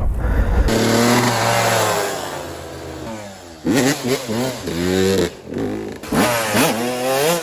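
Dirt bike engine revving. It runs steady and fades away, then rises and falls in pitch several times in quick succession.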